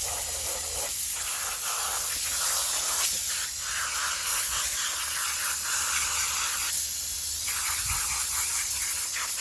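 Water spraying steadily onto a dirt bike air filter to rinse off mud: a continuous hiss whose tone shifts now and then as the spray moves over the filter.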